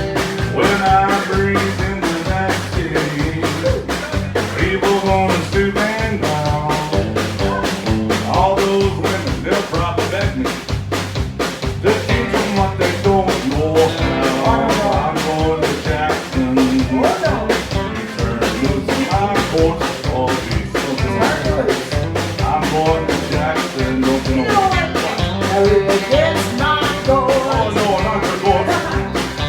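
Live country band playing an up-tempo duet, with a singing voice over a steady drum beat and pulsing bass.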